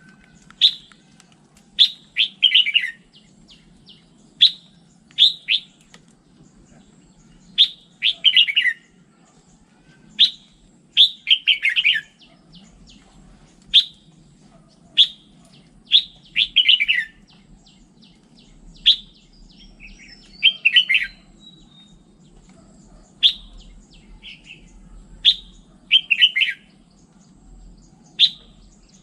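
Red-whiskered bulbul singing short, chirpy whistled phrases, one every second or two, over a faint steady low hum.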